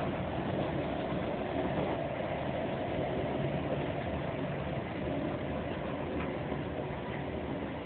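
Inside a ScotRail electric passenger train running at speed: the steady running noise of the carriage, wheels on the track.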